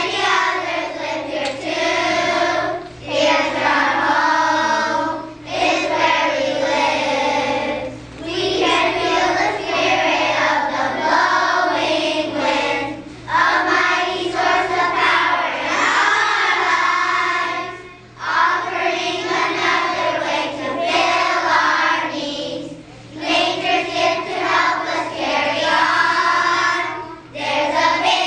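A group of children singing together in phrases of a few seconds, with short breaks between them.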